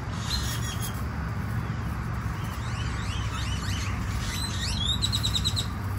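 Birds calling: a series of short rising chirps and whistles, ending in a quick run of about eight notes near the end, over a steady low rumble.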